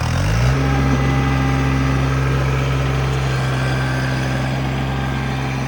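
Tractor engine revving up within the first half second, then running steadily at the higher speed.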